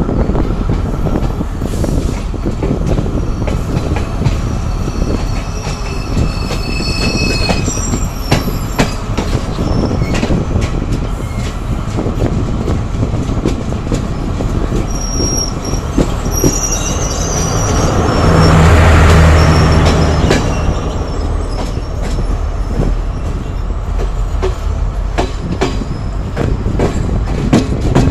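Passenger train running on its rails: a steady rumble with repeated clicks of wheels over rail joints, and thin high-pitched wheel squeal several times in the first two-thirds. About two-thirds through, the sound swells louder for a couple of seconds, then settles back.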